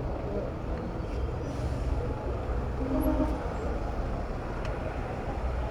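Road traffic heard from a moving bicycle: a steady low rumble of vehicles and wind, with a short pitched tone about three seconds in.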